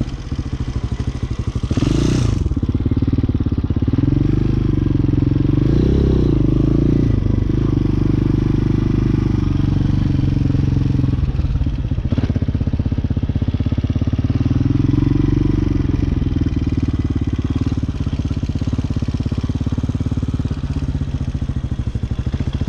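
Hawk 250cc motorcycle engine running at low revs during slow tight manoeuvres, the revs rising and falling gently a few times as the clutch is worked. A brief sharp clatter sounds about two seconds in.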